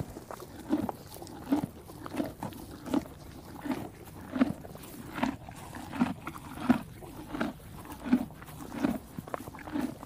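Zebra sounds: a steady series of short, evenly spaced pulses, roughly four every three seconds.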